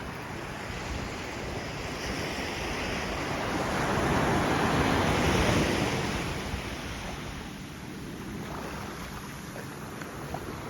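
Sea surf on a beach: a wave builds, breaks and washes up, loudest about four to six seconds in, then draws back and fades.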